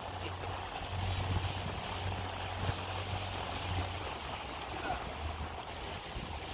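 Motorboat engine running with a steady low drone, under a hiss of wind and water.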